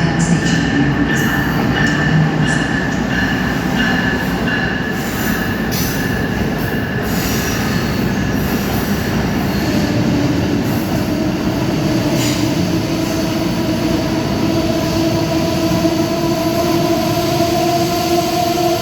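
ACS-64 electric locomotive hauling a passenger train along a station platform, with wheel squeal and rail noise. A steady electric whine is heard throughout and comes up in a lower pitch from about halfway through.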